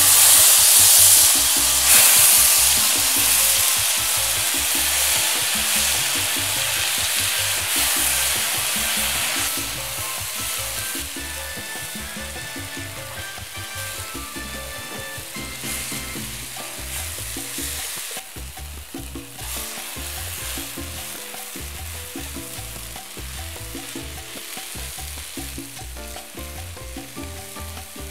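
Ground chili spice paste hitting hot oil in a stainless steel wok and sizzling, stirred with a wooden spatula. The sizzle starts suddenly and is loudest at first, settling to a quieter frying hiss after about ten seconds.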